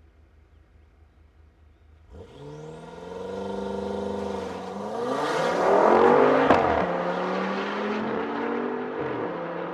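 High-performance cars accelerating at full throttle in a drag race, coming up out of near quiet about two seconds in. The engine note rises in pitch, is loudest as they pass about six seconds in with the pitch dropping, then runs on steadily.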